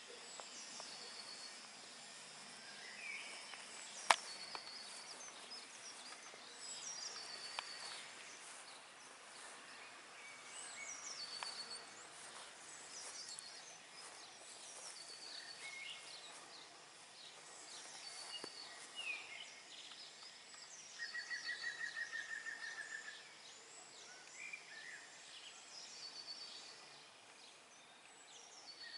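Small songbirds singing and calling outdoors: short high chirps and whistled phrases repeat throughout, with a rapid trill lasting about two seconds near the end. A single sharp click about four seconds in.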